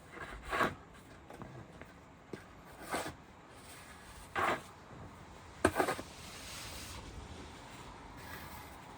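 Snow shovel scraping and scooping snow in several short strokes at irregular intervals, the loudest with a sharp knock a bit past the middle.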